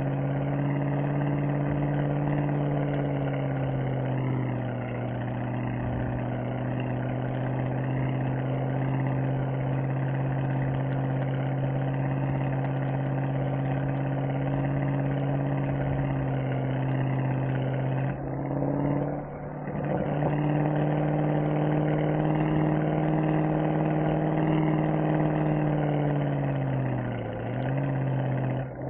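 Mercedes-AMG SL63's V8 engine and exhaust running at a steady cruising note. About two-thirds through the note briefly drops away and comes back. Near the end the pitch dips and then rises again.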